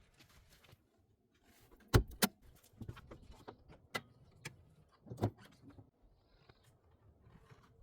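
Scattered clicks and light knocks of hand work on the car's engine, likely opening the oil filler cap, with a sharp double knock about two seconds in.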